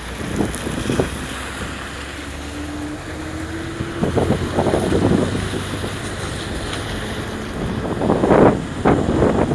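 Wind buffeting the microphone, a steady low rumble that surges louder in gusts midway and again near the end.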